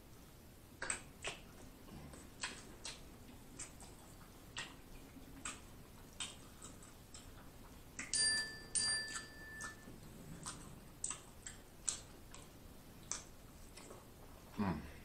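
Close-miked eating sounds: scattered wet mouth clicks and lip smacks as sauce-soaked lobster tail meat is chewed, with a louder cluster of squeaky squelches about eight seconds in as a lemon is squeezed over the lobster, and a short falling sound near the end.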